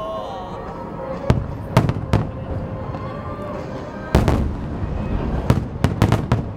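Aerial fireworks shells bursting in a string of sharp bangs over a low rumble: three in quick succession about a second in, a heavier, longer burst about four seconds in, then a rapid cluster of four near the end.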